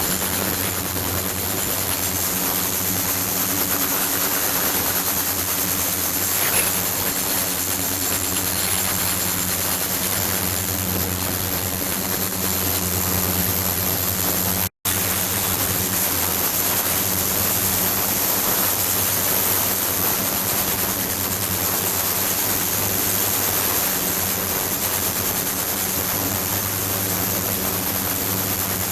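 Steady mechanical hum with a hiss over it, from a running flowing-water ultrasonic setup, with faint high whines above. It cuts out for an instant about halfway through.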